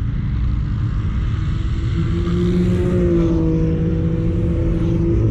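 Turbocharged 1999 Mazda Miata's 1.8-litre four-cylinder engine pulling hard around a racetrack, heard from inside the car over road and wind noise. Its note climbs about two seconds in, holds, then drops suddenly at the very end.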